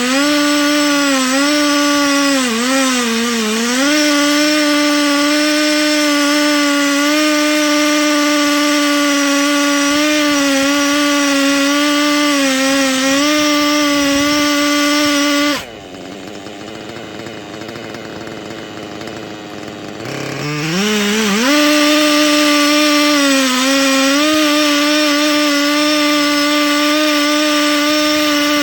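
Husqvarna 3120 XP two-stroke chainsaw running at full throttle while milling an oak log, its pitch sagging now and then under the load of the cut. About halfway it drops off throttle for some five seconds, then revs back up and runs on steadily.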